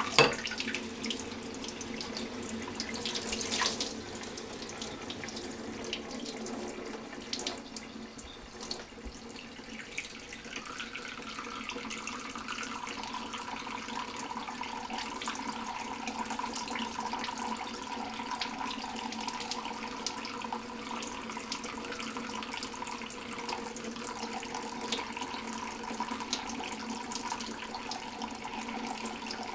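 Tap water running in a steady stream, with a brief burst of splashing about three seconds in from a lovebird bathing in it.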